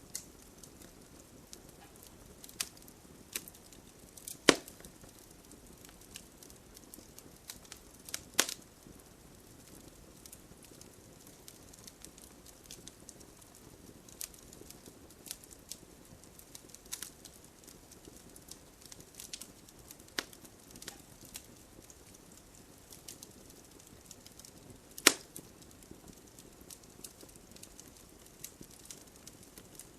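Wood fire crackling: a soft steady hiss with scattered small snaps, and three sharp, loud pops, at about four and a half seconds, eight seconds and twenty-five seconds in.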